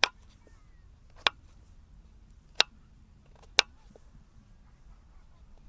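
Four sharp, isolated snaps about a second apart over a quiet background.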